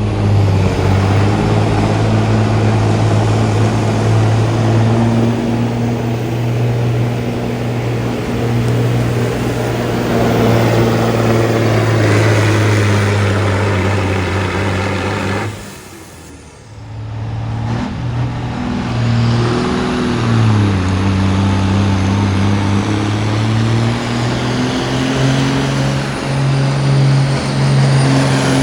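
A pulling vehicle's engine running hard at high revs, a loud steady drone. About halfway through it drops away briefly, then comes back with its pitch dipping and then climbing again.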